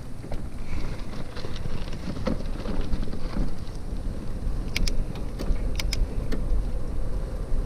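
Bicycle rolling over a rough trail, heard from a camera riding in the bike's trunk bag: a steady low rumble with scattered rattles and clicks, and a few sharper clicks about five seconds in.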